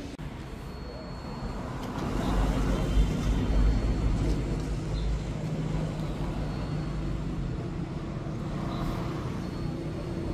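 Street traffic noise: a steady low rumble of passing vehicles, swelling louder for a few seconds about two seconds in as a vehicle goes by.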